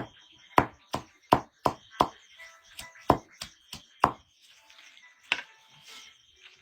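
Quick chopping strokes of a blade knocking into wood, about three a second, stopping after about four seconds, with one more stroke a little past five seconds.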